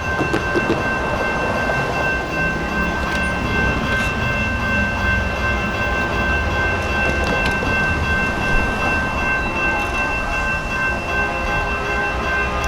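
Union Pacific diesel locomotive's multi-chime air horn sounding one long, steady chord, held unbroken, over the low rumble of the passing train.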